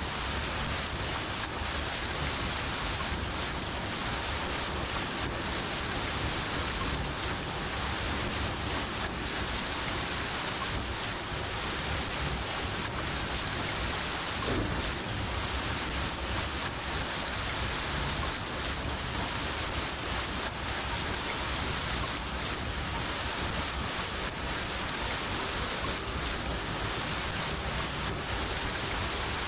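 Crickets chirping in a steady, even rhythm of a few chirps a second, high-pitched, over the constant hiss of steady rain.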